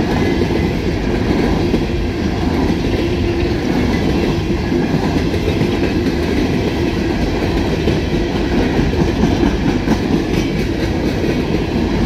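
Empty steel coal cars of a freight train rolling past close by: a steady, loud rumble of steel wheels on the rails.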